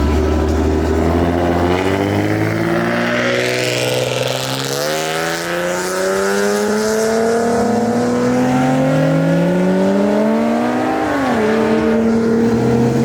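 Car engine accelerating hard, its pitch climbing steadily for several seconds, then dropping sharply about eleven seconds in and holding steady.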